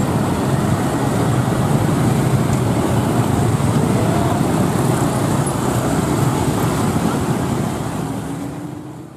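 Passenger train rolling away over the rails: a steady rumble of wheels on track, fading out near the end.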